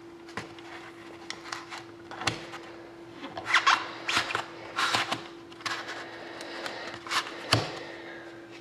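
Trading cards and their packaging being handled: a run of light clicks and taps with several louder rustles in the middle and near the end, over a faint steady hum.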